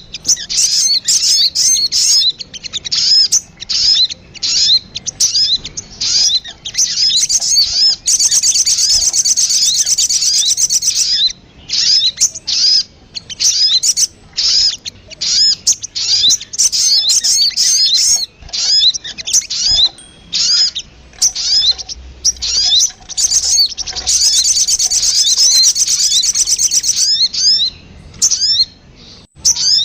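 Sogon bird lure call: a fast, high-pitched series of chirps that runs on with almost no break. Twice it runs into a continuous rapid trill of about three seconds, about eight seconds in and again near the end.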